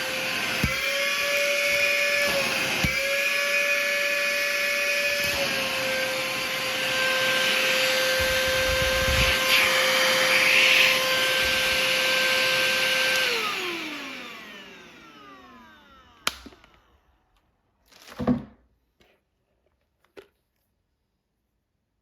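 Cordless handheld vacuum cleaner running with a steady motor whine. About thirteen seconds in it is switched off and the whine falls in pitch and fades as the motor spins down, followed by a few short knocks.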